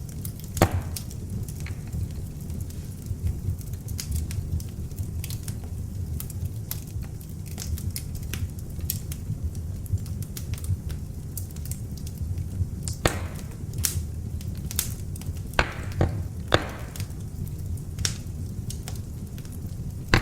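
Beech logs burning in an open fireplace: a steady low rumble of flame with frequent crackles and sharp pops, a few louder snaps about two-thirds of the way through.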